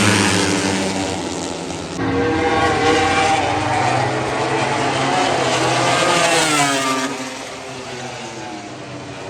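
Racing motorcycle engines screaming past on the circuit, their pitch rising and falling as the bikes go by. About two seconds in, a louder engine comes in. A clear drop in pitch and level follows near the end as the bikes pass and move away.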